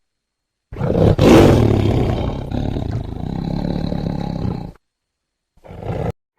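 An animal roaring: one loud roar of about four seconds that starts sharply, then a short second burst near the end.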